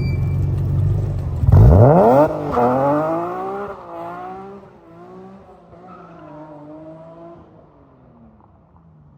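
BMW E46 M3's S54 straight-six running through a Supersprint race exhaust with a non-resonated X-pipe. It runs steadily, then about a second and a half in it revs sharply and loudly as the car pulls away, its pitch rising and dropping several times as it shifts up and fades into the distance.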